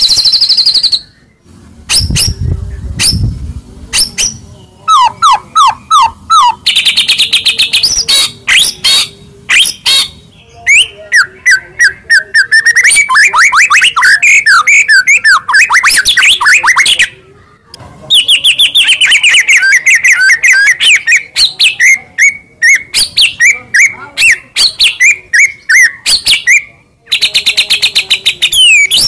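White-rumped shama (murai batu) in full, loud song: a varied run of rapid repeated notes, fast trills and whistled glides, broken by a few short pauses.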